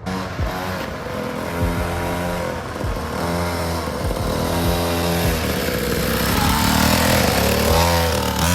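SYX Moto Holeshot 50cc gas mini dirt bike engine running, its pitch rising and falling over and over as the throttle is opened and eased.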